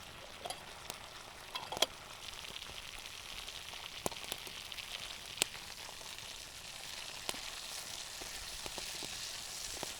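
Onions and mushrooms frying in butter in a pan: a steady sizzle that builds after the first couple of seconds, with scattered sharp pops and clicks.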